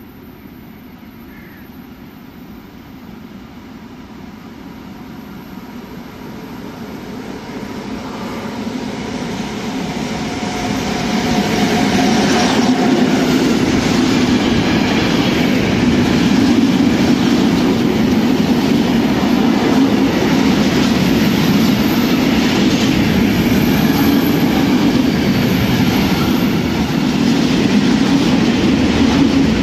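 A train approaching, growing steadily louder over about ten seconds, then running past close by with a steady heavy rumble of wheels on rail.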